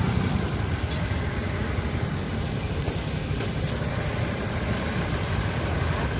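Road traffic: motor vehicle engines running with a steady low rumble.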